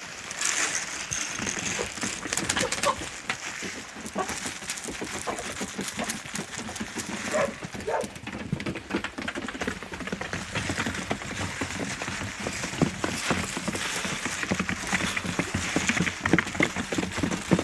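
Hens pecking at scattered pearl barley: many quick, irregular taps, with a few short clucks.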